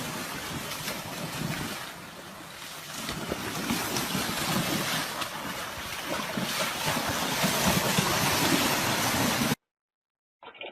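Wind buffeting the microphone over the wash of water. It cuts off abruptly about a second before the end.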